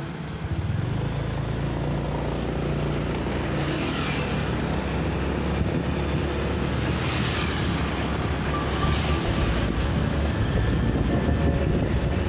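Motorcycle engine running on the move, with road and wind noise on the microphone. It grows louder about half a second in, then holds steady.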